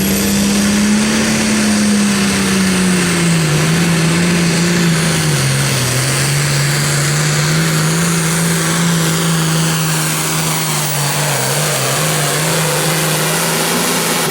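Super Farm pulling tractor's turbocharged diesel engine running flat out under load during a pull, its pitch sagging a little as the sled bears down and then holding steady. The sound drops off abruptly at the very end.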